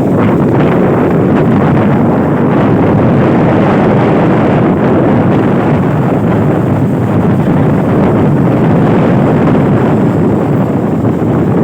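Strong wind blowing across the microphone, a loud steady rush.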